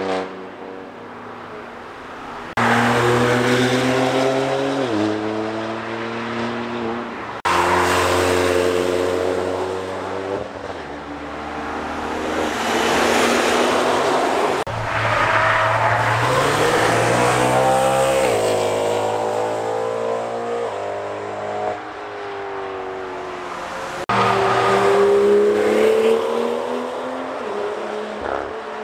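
Cars driven hard past a track corner one after another, engines revving up and dropping in pitch at each gear change. The sound jumps suddenly in loudness three times as one car gives way to the next.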